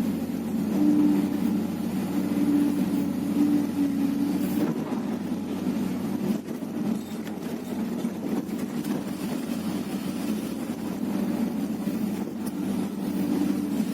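Hyundai R330LC-9S excavator's diesel engine running steadily, with a higher steady tone over it for the first few seconds and again near the end.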